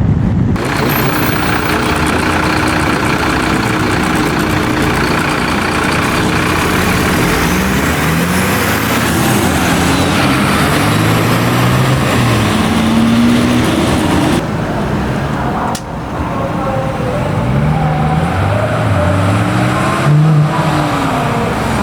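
Engines of classic cars accelerating, rising in pitch and dropping back at gear changes several times over, in a few separate passes.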